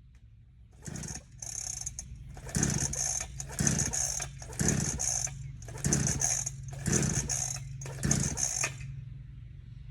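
Dirt bike engine being cranked over in repeated starting attempts, about eight strokes roughly a second apart, each a short churning burst. It never catches and settles into running.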